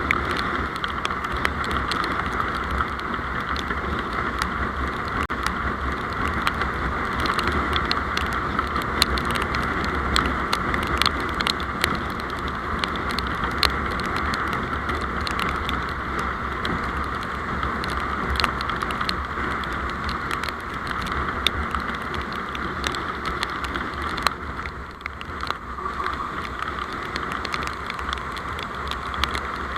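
Steady road noise from a moving vehicle, with a low rumble and scattered sharp ticks, heard through a dashcam's microphone. The level dips briefly a little past the middle.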